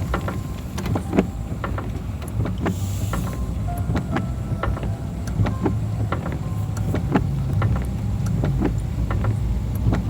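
Car driving, heard from inside the cabin: a steady low road-and-engine rumble with scattered sharp taps and knocks through it.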